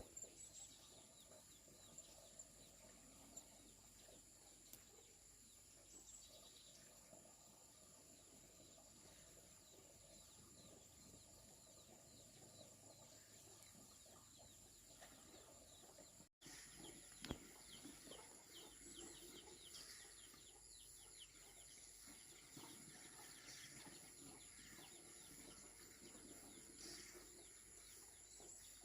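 Near silence: faint rural background with a steady high-pitched whine and scattered faint ticks, broken by a short dropout about halfway through.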